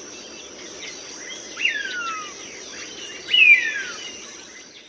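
Hawk giving two descending screams about a second and a half apart, the second louder, over a steady chorus of insects.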